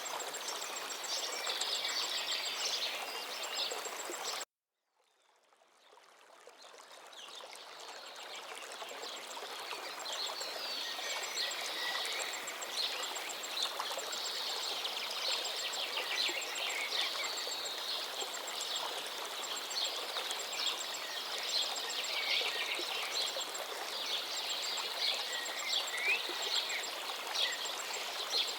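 Several birds singing and chirping over the steady rush of a flowing forest river. About four seconds in, the whole sound cuts out abruptly to silence, then fades back in over several seconds, like an edit or loop seam in the recording.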